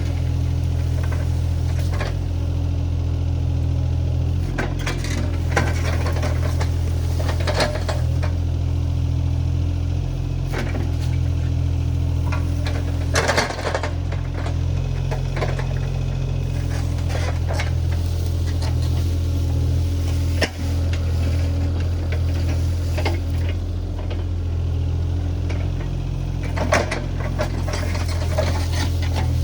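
Diesel engine of a compact earthmoving machine running steadily under work, with scattered knocks and clanks, the most prominent about a third of the way in, around two-thirds of the way through and near the end.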